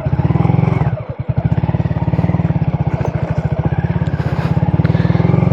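Honda Grom's 125 cc single-cylinder four-stroke engine running at a steady, rapid idle. The note dips briefly about a second in and gets gradually louder near the end.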